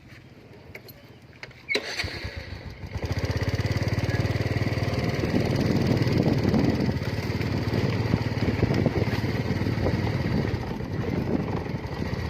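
A small engine starts up about two seconds in and then runs steadily.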